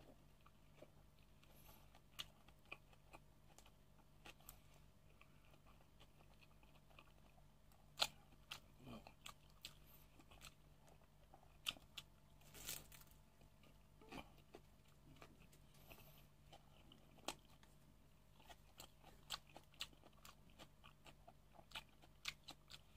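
Faint close-up eating: biting into and chewing crisp fried fish spring rolls, with scattered sharp crunches, the loudest about eight seconds in.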